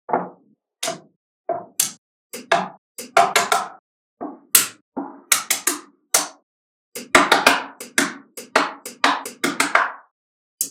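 Small magnetic balls clicking and clacking together as they are handled and snapped into place, in irregular sharp clicks and short clattering clusters, busiest from about seven to ten seconds in.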